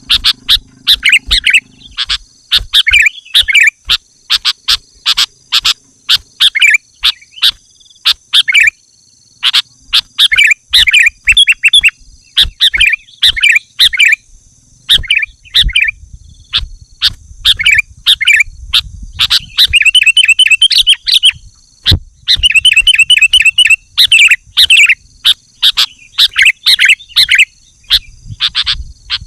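Sooty-headed bulbul (kutilang) singing loudly and without let-up: short whistled phrases repeated in quick succession, with fast chattering runs about two-thirds of the way through. It is the vigorous, rival-challenging song used to lure other bulbuls.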